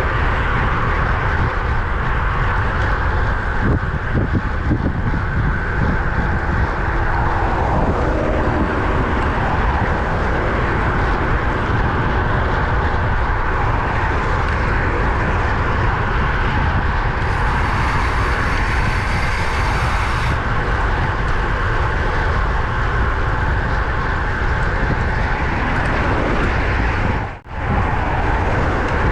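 Steady wind noise rushing over the microphone of a camera on a road bike at speed, mixed with the hum of road traffic. The sound drops out for an instant near the end.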